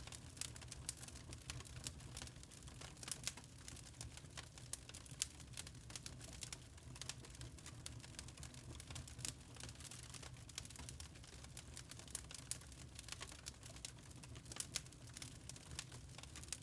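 Burning charcoal crackling, with many small irregular pops and snaps, over a low steady hum.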